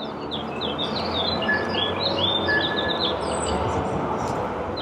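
Small birds chirping in quick, short notes, again and again, over a steady din of background noise.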